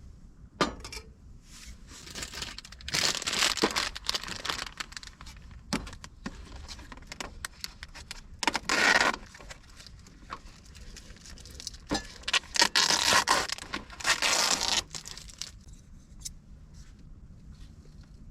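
Close rustling and crinkling of something being handled, as of a plastic bag, wrapper or fabric. It comes in three bursts, the longest near the end, with scattered sharp clicks in between.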